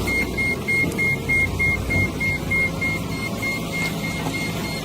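Electronic beeper sounding a steady run of short, high, single-pitch beeps, about three a second, over a low rumble.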